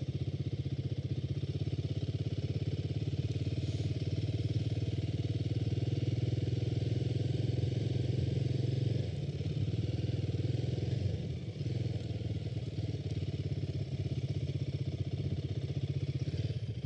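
Motorcycle engine running steadily with a fast, even firing beat, easing off briefly about nine seconds in and again a couple of seconds later.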